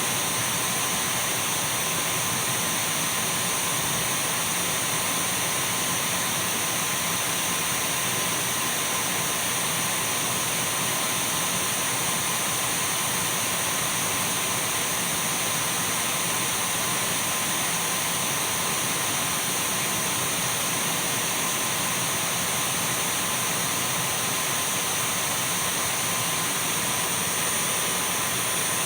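Dyson V12 cordless stick vacuum cleaner running steadily: an even rush of air with a thin, steady high whine from the motor.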